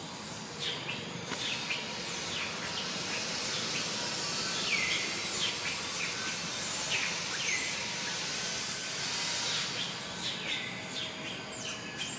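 Birds chirping: many short, high calls that sweep downward, repeating throughout, over a steady background hiss.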